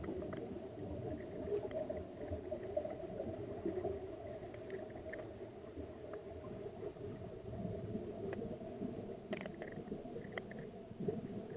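Muffled underwater ambience heard through a camera's waterproof housing during a scuba descent: a low rumble with a steady hum and a few faint scattered clicks.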